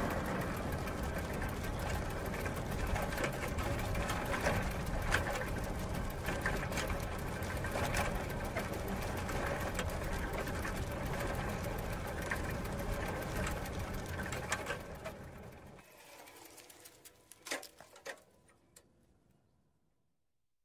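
Bicycle wheel and chain spinning with a fast, steady mechanical whirr that dies away about fifteen seconds in, followed by a few faint clicks.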